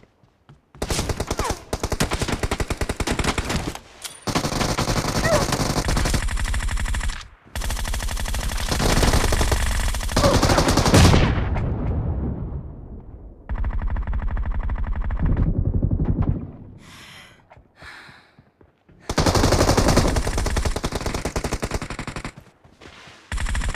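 Automatic gunfire in several long bursts of a few seconds each, with short breaks between them.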